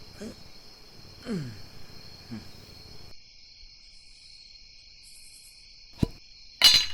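Crickets chirping steadily, a constant night chorus. In the first three seconds there are four short calls that fall in pitch, and near the end a sharp click followed by a louder brief burst of noise.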